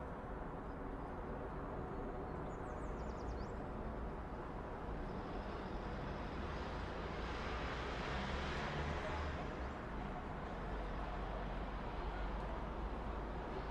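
City street ambience: a steady traffic hum with a low rumble, and a passing vehicle that swells and fades in the middle. A few short high chirps come a few seconds in.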